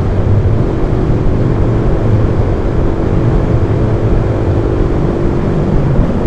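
Steady wind noise rushing over a microphone tucked inside a motorcycle helmet while riding, with the motorcycle's engine running underneath. A faint steady tone sits in the mix and fades out near the end.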